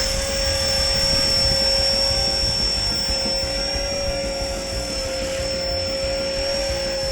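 E-Flite Blade 400 electric RC helicopter flying with a hooked sunfish on its line. The motor gives a steady whine at two fixed pitches, one low and one high, over the rotor noise.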